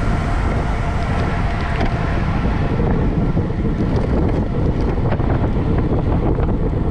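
Wind buffeting the microphone of a camera carried at racing speed on a bicycle, a steady low rumble with a few faint ticks.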